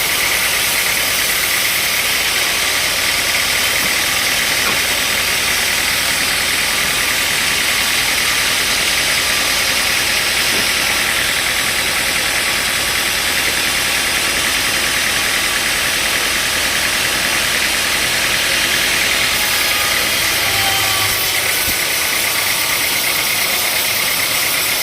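Sawmill machinery running steadily: a loud, unbroken, mostly high-pitched noise with a faint low hum underneath.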